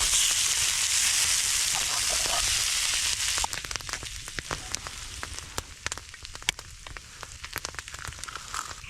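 Frozen corned beef hash frying on a hot griddle: a loud, steady sizzle that drops suddenly about three and a half seconds in to a quieter crackle with scattered sharp pops.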